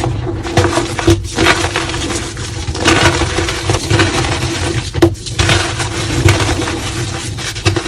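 Soft, dusty reformed gym chalk being crushed and crumbling, a dense run of crackling and crunching with small clicks and a few louder surges.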